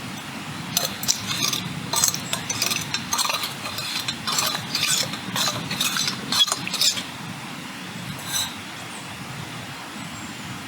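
Metal utensils clinking and scraping against cookware in a quick, irregular run of light knocks that stops about two thirds of the way through, over a steady low rumble.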